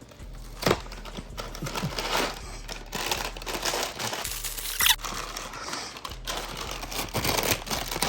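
Plastic cracker packaging crinkling as it is handled and opened, with one sharper crackle about five seconds in.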